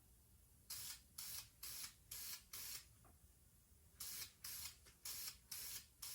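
Short hissing bursts of lacquer being sprayed onto a plastic fishing lure for a shine coat, in two runs of five quick bursts, each about a third of a second long, with a pause of about a second between the runs.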